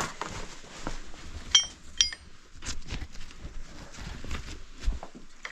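Two sharp metallic clinks about half a second apart, each ringing briefly, over low shuffling and handling noise.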